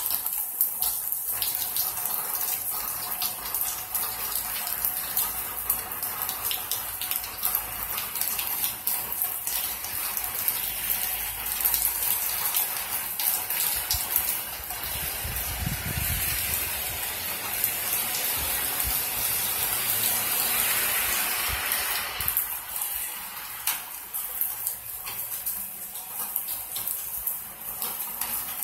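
Heavy rain falling steadily, a dense hiss with many drips and spatters. About halfway through, a car passes on the wet road with a brief low rumble and tyre swish.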